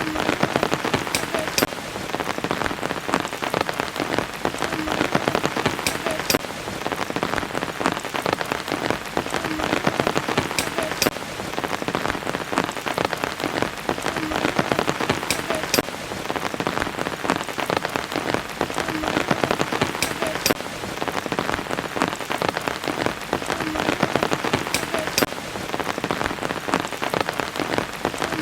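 Steady rain falling on a surface, a dense patter of drops. A group of louder, sharper drops comes back about every five seconds.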